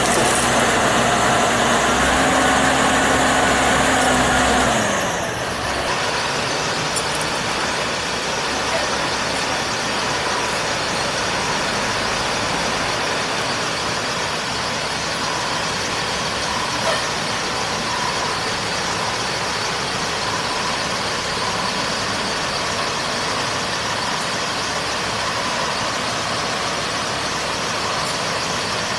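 An engine running steadily; its tone falls away about five seconds in, leaving a steady, even mechanical din of heavy machinery.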